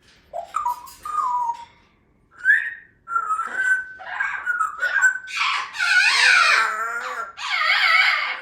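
Parrot vocalising: a few short whistles, then a held whistled note, then loud, raspy calls through the last three seconds.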